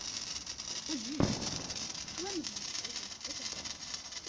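A single sharp thump about a second in, with a few brief voice sounds, over a steady high hiss.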